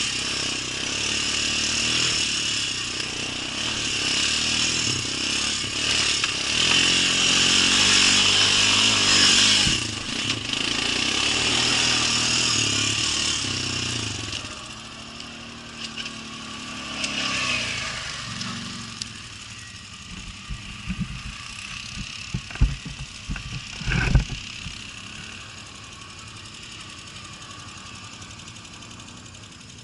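ATV engine running hard under throttle, its pitch shifting, then winding down to a lower, quieter running about fourteen seconds in. A few sharp knocks come around two-thirds of the way through.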